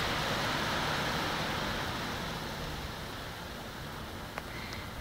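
Several tonnes of pea gravel pouring out of a tipping dump truck: a loud rushing noise that eases off about halfway through, with a low steady hum underneath.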